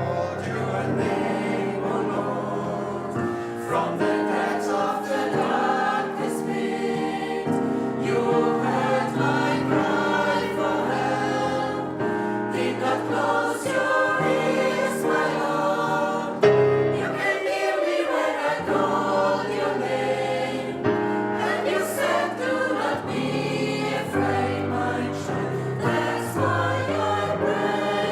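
Gospel choir singing with accompaniment.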